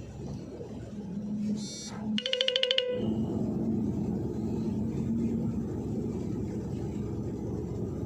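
A newly fitted truck horn is sounded once, a short pitched blast that pulses rapidly for under a second, just after a brief high chirp, over the steady rumble of the truck's engine heard from inside the cab.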